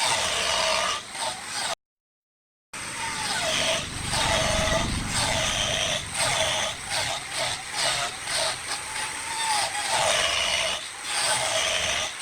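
Wood lathe running with a turning tool cutting into the spinning wood, giving a steady rasp with a wavering whine and frequent small knocks; the sound cuts out completely for about a second near the start.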